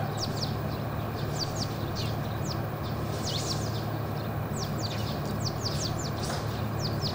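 Birds chirping: many short, high chirps that fall in pitch, a few each second, over a steady low hum.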